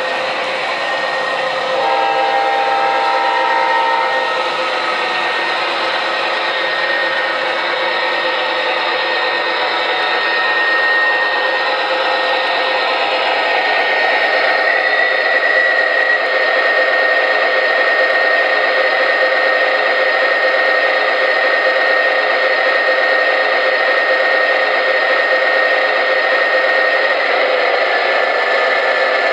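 MTH Premier ES44AC model diesel locomotive running, its onboard sound system giving a steady diesel engine sound with a high whine over motor and wheel noise. A brief chord of several steady tones sounds about two seconds in.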